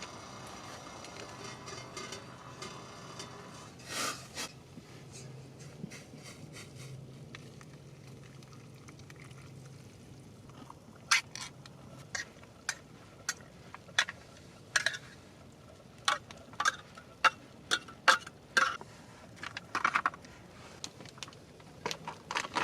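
A pot of water bubbling for the noodle soup, then from about halfway through a run of sharp, uneven clicks and scrapes of a utensil against the pot, about one a second, as the ramen is stirred.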